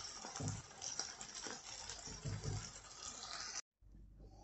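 Diced eggplant, tomato and pepper frying in oil in an open frying pan: a steady sizzling crackle with a few soft low knocks, which stops abruptly near the end.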